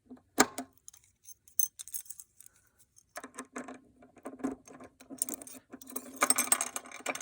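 Keys jangling and clicking, with a sharp click early, then from about three seconds in a steady low hum with clatter that grows louder toward the end.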